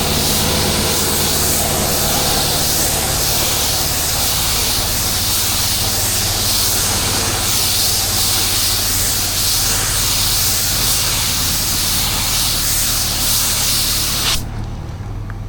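Pressure washer spraying water with a steady hiss over the running engine's hum; the spray cuts off suddenly about a second before the end while the engine keeps running.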